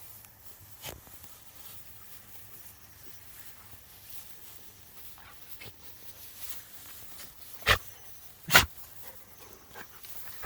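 A dog making a few short, sharp barks: a faint one about a second in, then two loud ones close together near the end.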